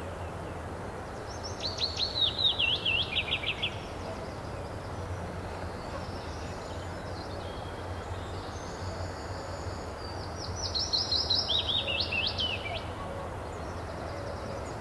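A songbird sings two phrases of quick notes that step down in pitch, about two seconds in and again about ten seconds in, over a steady low hum.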